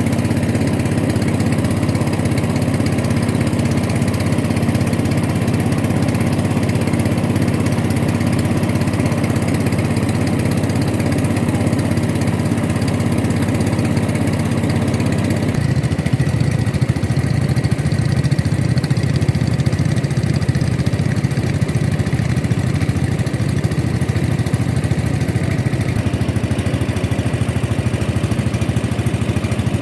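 Boat engine running steadily; about halfway through its pitch drops suddenly to a lower, steady hum, as the engine slows.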